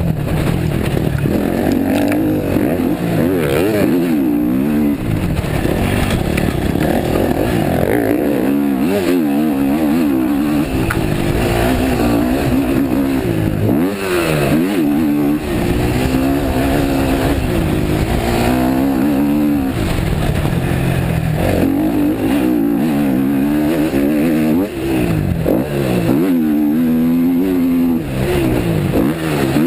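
Racing motorcycle engine at full speed, its pitch repeatedly climbing and dropping as it is run up through the gears and shut off for the corners, with wind rush over the rider's chest-mounted microphone.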